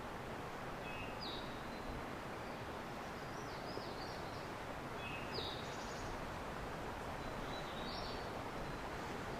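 Steady wind noise, with a songbird repeating a short high song about every two to three seconds.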